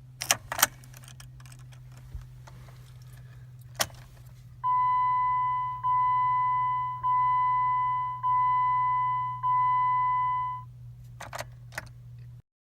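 Keys jangling and clicking, then a car's electronic warning chime sounding five times, each tone fading, a little over a second apart. More key clicks follow near the end.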